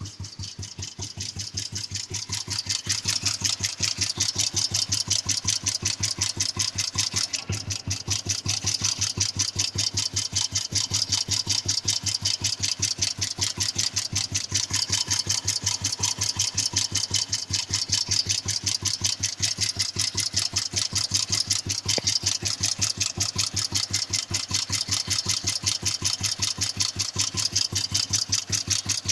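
Royal Enfield cast iron 350's single-cylinder four-stroke engine running at a steady idle, with an even, rhythmic knock on every firing stroke, which the owner suspects may be piston knock. It grows louder over the first few seconds, then holds steady.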